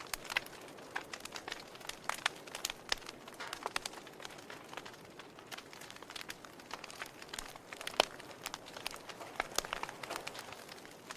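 Wood fire burning in a fireplace: irregular sharp crackles and pops over a soft steady hiss, with one louder pop about eight seconds in.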